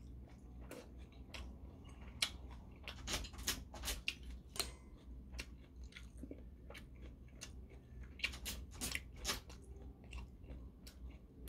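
A man chewing kimchi stew and rice close to the microphone with his mouth open: a run of short, irregular mouth clicks that come in clusters.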